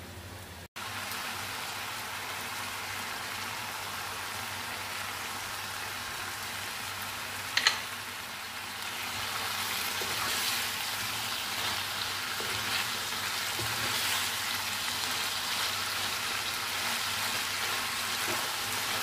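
Mixed vegetables sizzling in liquid in a wok, a steady crackling hiss that grows somewhat louder about nine seconds in, with one sharp clink about eight seconds in.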